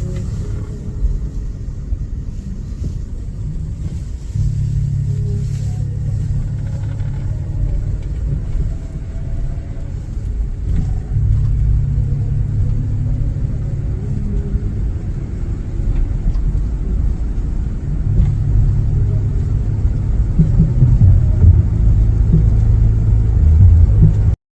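Low, steady engine rumble with a deep hum that comes and goes in stretches, growing louder toward the end.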